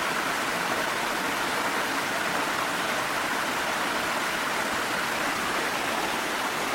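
Waterfall and rain: a steady, even rush of falling water with no separate drops or breaks.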